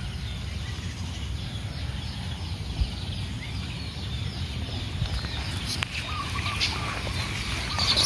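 Birds calling: a run of short, repeated high chirps over a steady low rumble on the microphone.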